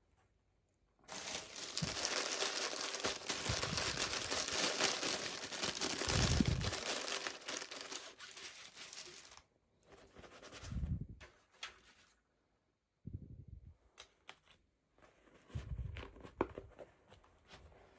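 Toy packaging being torn open and crinkled by hand, a dense crackling rustle for about eight seconds. After that come quieter scattered clicks and handling noises.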